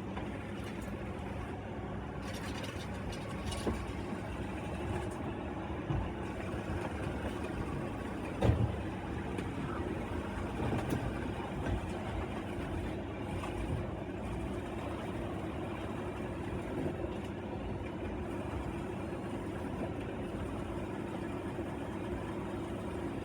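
Several robot vacuums running at once: a steady whirring drone of their motors and brushes, with a few short knocks, the loudest about eight and a half seconds in.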